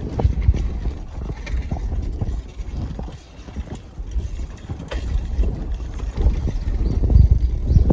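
Bicycle riding over a rough dirt trail: a steady low rumble of wind and movement on the phone's microphone, with many small knocks and rattles from the bike going over bumps and twigs, heavier near the end.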